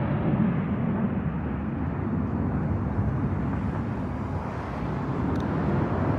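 Low jet rumble of the Thunderbirds' F-16 formation receding just after passing overhead. It stays steady and fairly loud, with a slight swell near the end.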